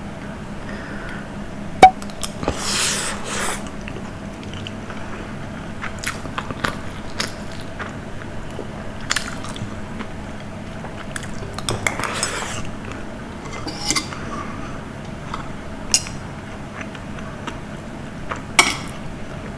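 Eating sounds: cutlery clicking and scraping against a food tray, with biting and chewing in between. One sharp clink a little under two seconds in is the loudest sound, and short rustling bursts come around three seconds and twelve seconds in.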